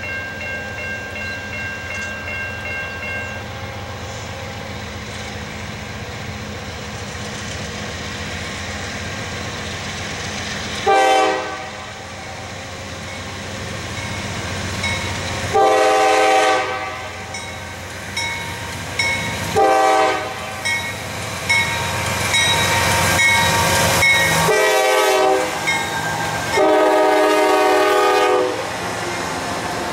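An approaching Norfolk Southern freight led by a GE AC44C6M and an ES44AC sounds its air horn in a series of blasts, the longest near the end as the locomotives pass close by. Under the horn the diesel engines rumble steadily and grow louder as they near, and the wagons' wheels roll past at the end.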